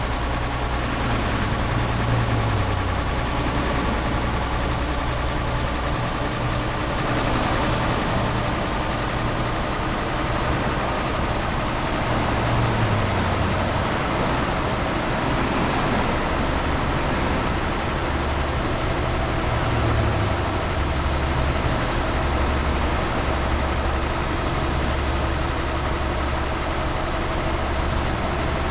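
Tanker truck's engine running steadily on the road under a haze of road noise, its low note shifting a few times.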